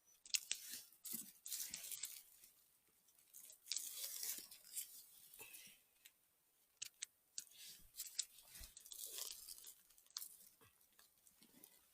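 Irregular crunching and rustling of dry forest-floor litter, leaves and twigs being stepped through or pushed aside, with scattered sharp snaps.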